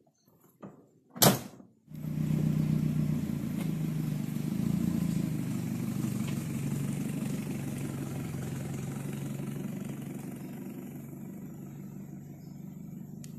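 A sharp knock about a second in, then a Triumph Spitfire Mk IV's four-cylinder engine starts and runs steadily. The engine gradually gets quieter as the car pulls away.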